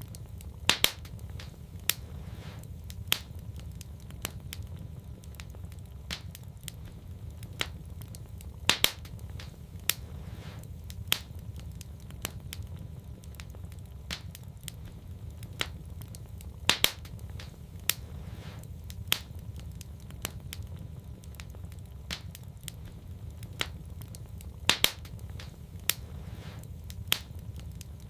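Wood fire in a fireplace crackling, with a steady low rumble of flame and irregular sharp pops. A louder double pop comes back about every eight seconds, so the crackle runs as a repeating loop.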